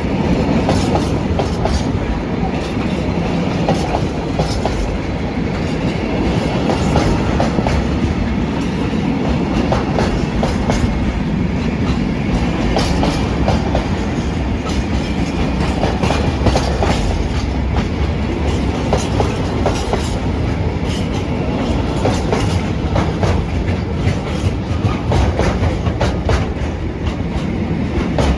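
A long freight train hauled by a Class 66 diesel rolling steadily past, its wagon wheels clattering rhythmically over the rail joints the whole time.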